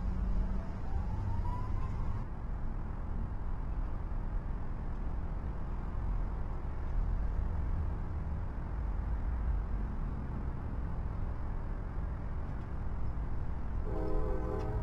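Steady low rumble of trains and locomotives, with a multi-tone locomotive horn starting to sound near the end.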